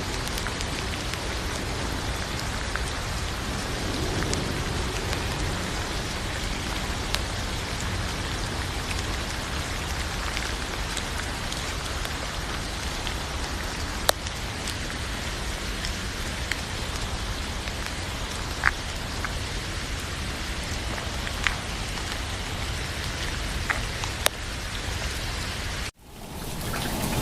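Steady rain falling, with scattered single drops ticking sharply. About a second before the end the sound cuts out abruptly and comes back louder and fuller.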